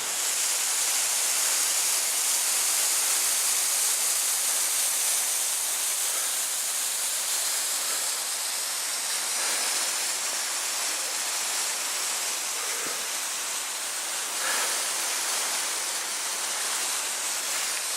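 Steady, unbroken rush of a mountain waterfall.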